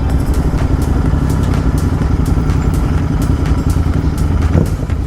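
Royal Enfield Continental GT 650's parallel-twin engine running under way through an aftermarket Gursewak exhaust, with frequent sharp clicks and knocks over the steady engine note.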